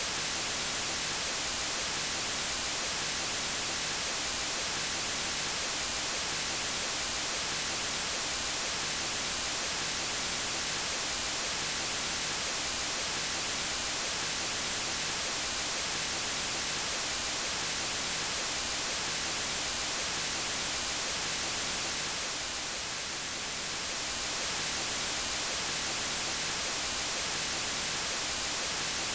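Steady white noise: an even, unbroken hiss strongest in the high pitches, dipping slightly in level for a moment about three-quarters of the way through.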